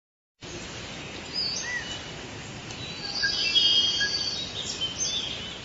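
Birds chirping and whistling over a steady outdoor background noise, starting abruptly about half a second in and fading near the end.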